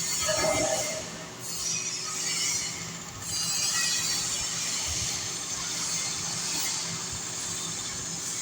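Metal lathe running and turning a shaft: a steady machine hum under a high, hissing scrape from the cutting tool on the metal, which dips briefly twice in the first few seconds.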